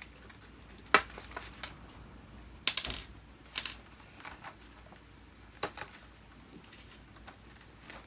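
Small screws and hard plastic vacuum-cleaner parts clicking and clattering as they are unscrewed and handled: a handful of separate sharp clicks, the loudest about a second in.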